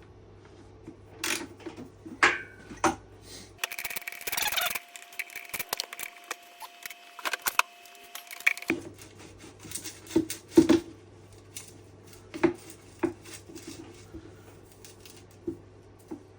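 Socket wrench and metal parts clicking and knocking as a dirt bike's side panel is unbolted, with a few seconds of denser rapid clicking in the middle.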